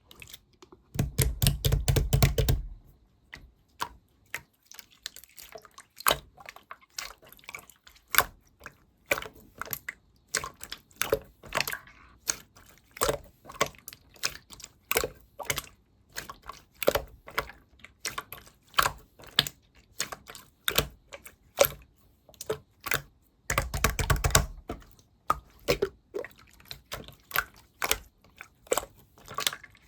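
Slime being pressed and squished by hand, a string of sticky clicks and pops about twice a second, with two stretches of rapid dense crackling, one just after the start and one about 24 seconds in.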